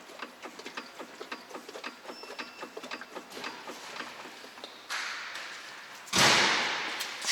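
Skoda Octavia III front suspension knocking as the car body is rocked by hand: a run of light, quick knocks, several a second, then a louder, noisier thump about six seconds in. The knock comes from the front right, which the mechanic traces to a worn anti-roll bar (stabilizer) link.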